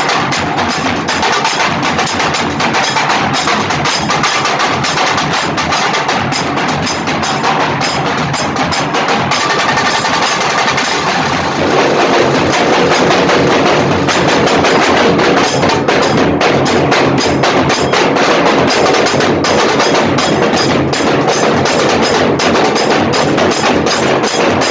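Drums playing a fast, dense dhamal rhythm with rapid sharp strokes, growing louder and fuller about halfway through.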